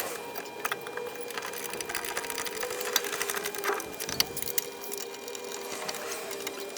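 Ratchet wrench clicking in quick runs and metal tools clinking while the front suspension and ball joint are bolted back together, over a steady hum.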